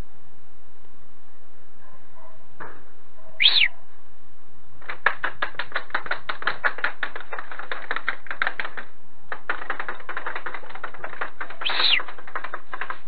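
A bird's rapid chattering call: two runs of quick, even clicks about six a second, each lasting several seconds, with a short call that rises and falls once before the chatter and again near the end.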